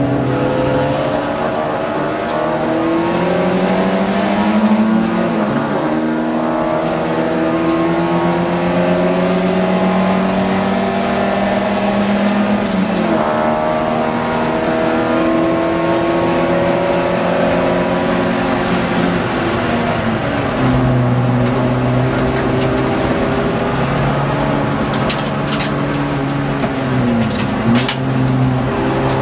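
Ford Fiesta XR2 race car's engine heard from inside the cabin, pulling hard with its pitch climbing through each gear and dropping sharply at each gear change. A few sharp clicks come near the end.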